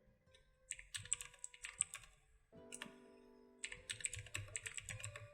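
Computer keyboard keys clicking in two quick runs of typing, with a short pause between them.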